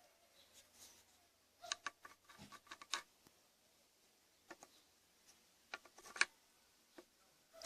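Hand work on the parts of an AD-180 washing-machine motor being taken apart: quiet, scattered clicks and scrapes in two short clusters, one about two seconds in and one around six seconds.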